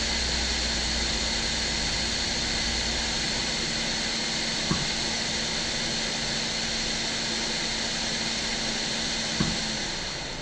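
Electric bench blower fan running steadily, a hiss with a high whine and a low hum, that winds down near the end. Two faint clicks sound about halfway through and near the end.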